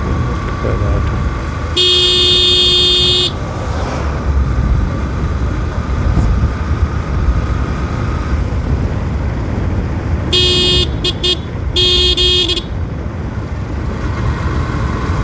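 A vehicle horn sounds one long blast about two seconds in, then a quick run of short beeps near the ten-second mark. Underneath is the steady rumble of wind and road noise from a moving motorcycle.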